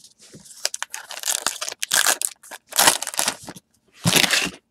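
Crinkling and rustling of a foil baseball card pack wrapper and cards being handled, in irregular crackly bursts with the loudest ones about two, three and four seconds in.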